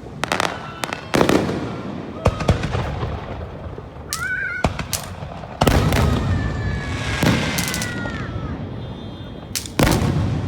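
Aerial fireworks bursting: a run of sharp bangs with crackle, the heaviest about a second in, at about five and a half seconds and near the end. High whistling tones sound between the bursts, one wavering upward in the middle and long ones falling in pitch after it.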